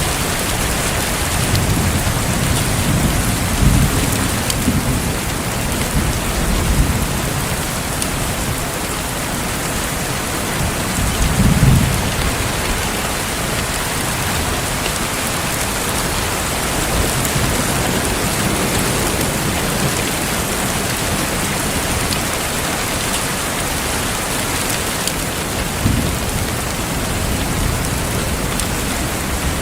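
Heavy rain falling steadily, with low rumbles of thunder swelling a few times in the first half.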